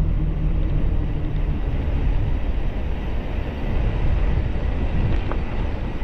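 Steady rushing wind and ride noise on a moving camera microphone during a mountain bike ride, heavy in the low end with no clear engine note.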